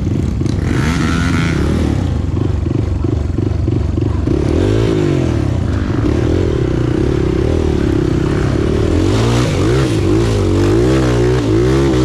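Trail motorcycle engine revving hard, its pitch rising and falling again and again as the rider works the throttle through soft ground.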